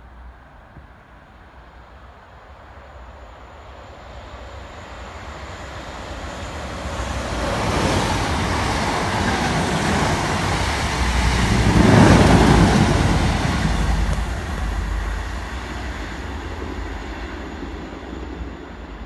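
A South Western Railway electric multiple-unit train approaching and passing through the station at speed. The rumble and rail noise build steadily, peak loudest about twelve seconds in as the carriages go by, then fade as the train draws away.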